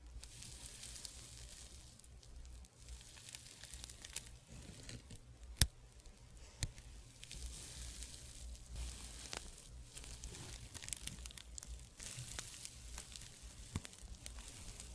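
Fabric rubbed against the microphone in slow swishing strokes that come in waves, with scattered small crackles and one sharp click about five and a half seconds in.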